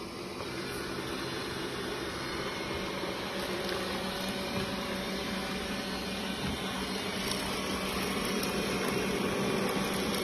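Roborock S4 robot vacuum running at full suction, a steady whirring hum as it sucks up rice scattered on the floor, growing gradually louder.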